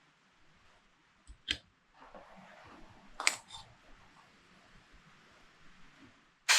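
A few light clicks and taps of small hand tools and carburettor parts being handled on a workbench, with a faint rustle between them. A burst of compressed-air hiss starts at the very end.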